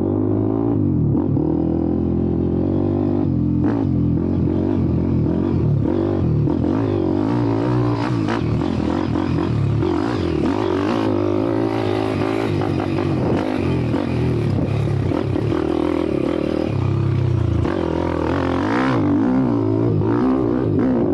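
YCF Bigy 190 pit bike's single-cylinder four-stroke Daytona 190 engine being ridden hard, its revs rising and falling constantly with the throttle.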